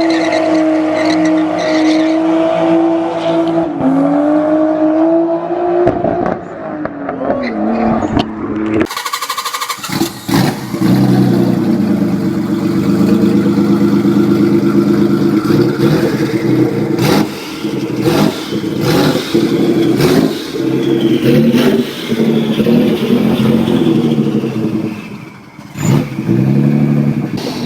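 Nissan 300ZX V6 engine running loud and high for several seconds, its pitch dipping briefly and then climbing back. After a short break, a harder, denser engine sound follows, hard revving and acceleration, with sharp cracks and pops from the exhaust.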